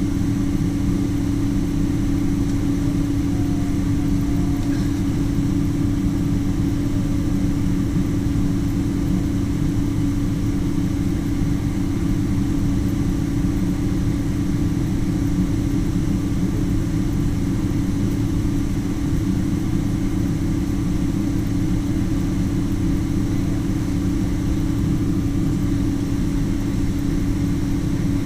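Boeing 777 jet engines running steadily: an unchanging drone with a strong low hum and a rumble beneath.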